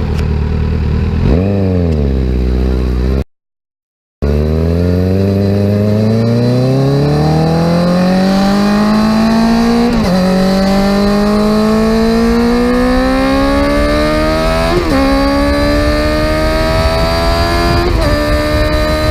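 Kawasaki Z900 inline-four engine through a full aftermarket exhaust: a quick rev blip, a break of about a second, then the bike accelerating through the gears. The engine pitch climbs steadily and drops sharply at each of three upshifts.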